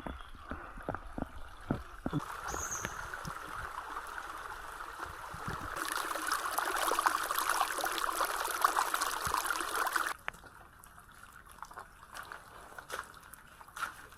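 Rainwater runoff trickling and pouring. It grows much louder about halfway through, then cuts off suddenly, leaving a quieter patter of drops.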